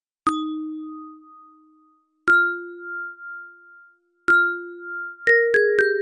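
Clear bell-like chime notes, each struck and left to ring out: three slow notes about two seconds apart, then three quicker notes near the end.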